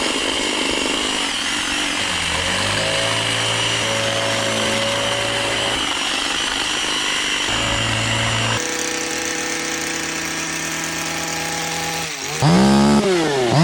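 Hedge trimmer running steadily as it cuts along the side of a conifer hedge. Near the end its engine is revved up and down several times, louder.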